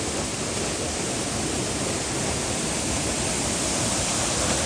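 Rain-swollen waterfall rushing, a steady unbroken wash of falling water.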